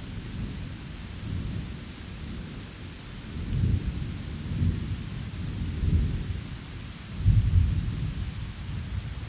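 Steady rain hiss with low rolling thunder that swells several times, loudest about three and a half, six and seven and a half seconds in.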